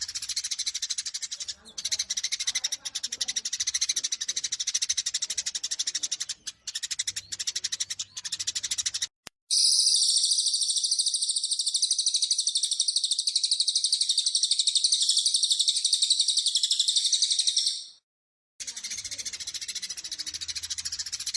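Eurasian tree sparrows giving dense, rapid, agitated fighting chirps. About nine seconds in, a short break cuts to a loud, unbroken high trill from another bird lasting about eight seconds, then the sparrow chirping resumes.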